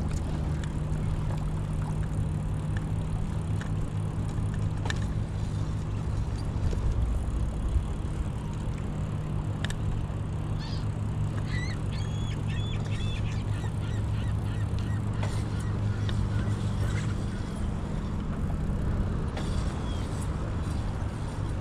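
Steady low hum under open-air noise, with a cluster of short honking bird calls about halfway through.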